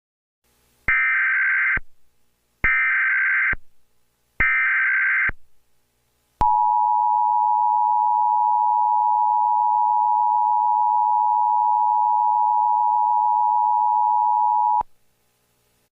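Emergency Alert System tones. Three short, loud bursts of the SAME digital header screech come first, each just under a second. Then the two-tone attention signal is held steady for about eight seconds before cutting off sharply. Together they announce an incoming alert.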